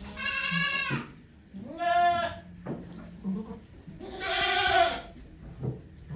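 A goat bleating loudly three times, each call wavering and lasting under a second to about a second, with the third call about four seconds in.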